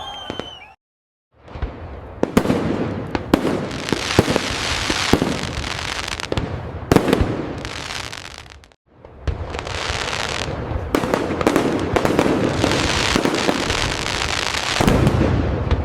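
Fireworks display: dense crackling and popping with many sharp bangs. It cuts to dead silence briefly about a second in and again about nine seconds in, then resumes.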